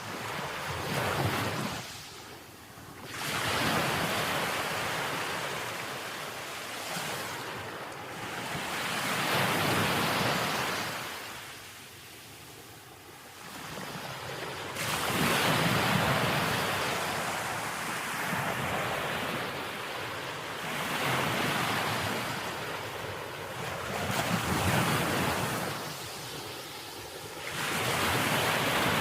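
Sea waves breaking and washing up the shore, the surf swelling and falling away in surges every few seconds, with a long lull about twelve seconds in.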